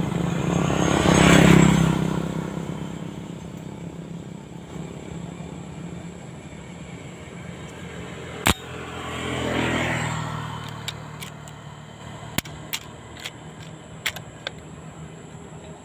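A motor engine passing by, swelling loud about a second and a half in and fading, then passing again more faintly near ten seconds. A single sharp crack about eight and a half seconds in, and a few lighter clicks a few seconds later.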